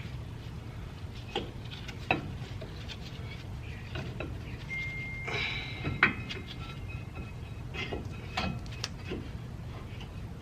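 Light metallic clicks and knocks, a few seconds apart, as brake pads and their clips are worked into a car's disc brake caliper bracket, over a low steady hum.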